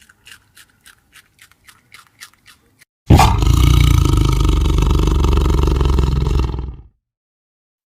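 A large animal roaring once, loud and rough, for nearly four seconds, starting about three seconds in and fading out. Before it, a run of faint short calls repeats about four times a second.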